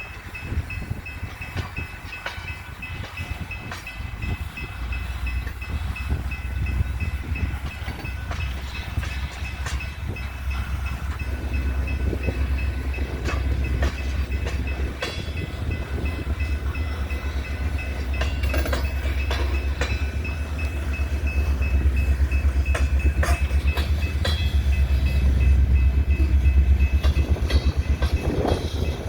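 Coal train rolling past, a low rumble that grows steadily louder, with wheels clicking over the rail joints and a thin, steady high-pitched tone above.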